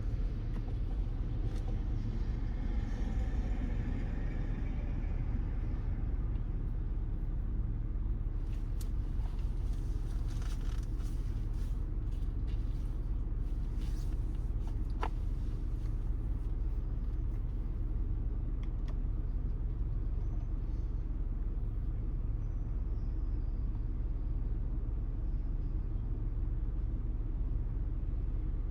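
Steady low rumble of a car on wet city roads in the rain, with a few faint clicks partway through.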